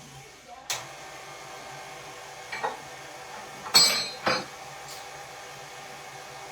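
Electric stand mixer running with a steady motor hum, with a few sharp clinks about a second in and again around two and a half and four seconds in.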